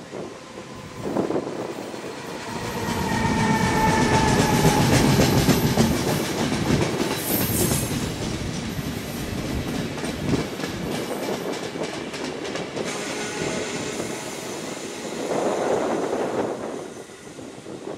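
Regional passenger train hauled by an E.464 electric locomotive running through a station: steady wheel-and-rail clatter with a slightly falling whine early in the pass, and a second swell of wheel noise near the end as a car passes close.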